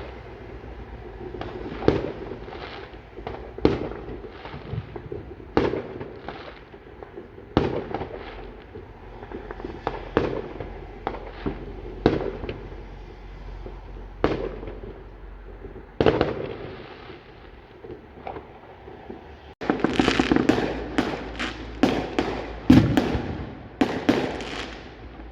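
Fireworks going off: irregular bangs with echoing tails, about one a second. About twenty seconds in comes a denser, rapid volley of sharper bangs and crackles.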